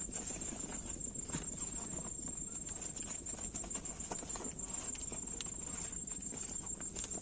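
A steady high-pitched insect trill runs unbroken, over a dense irregular patter of small taps and clicks.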